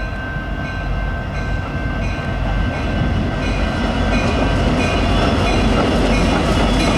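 Diesel-hauled freight train approaching: a steady low locomotive rumble that grows gradually louder, with faint repeated clicks of wheels and rail.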